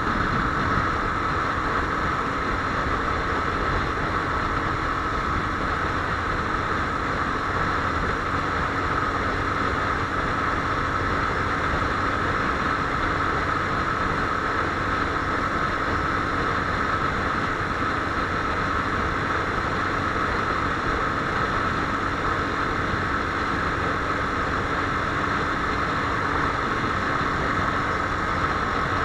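Viper R2 motorcycle engine running steadily, with an even hum that neither rises nor falls.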